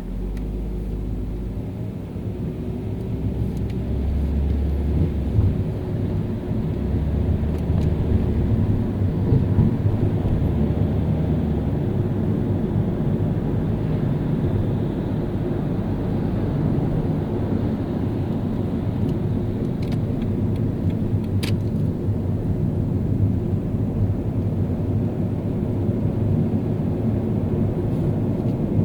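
Car driving in city traffic: a steady low rumble of engine and tyres on the road, growing louder over the first few seconds and then holding steady.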